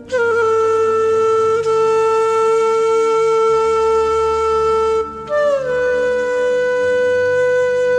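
Background music: a wind instrument holds long notes over a low steady drone. One note is held for about five seconds, then a higher note starts and slides down.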